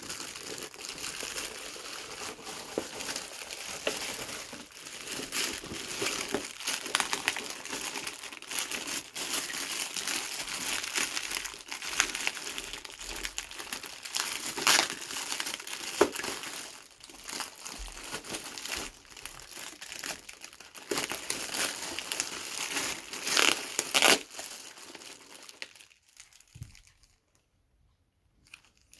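Packaging crinkling and rustling as it is handled and pulled off during unboxing, with a couple of louder crackling bursts before it stops a few seconds before the end.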